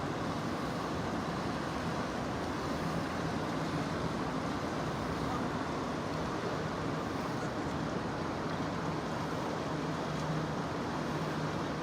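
River water rushing: a steady, even wash of flowing-water noise.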